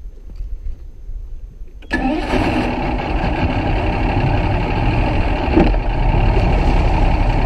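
Bass boat's outboard motor catching about two seconds in, then running steadily and loud.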